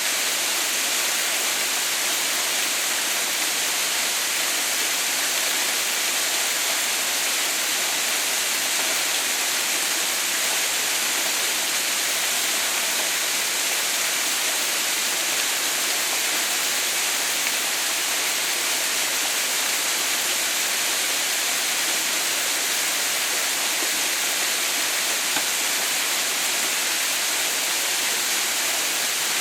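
Waterfall splashing in a steady, unbroken rush, a bright hiss of falling water with little low rumble.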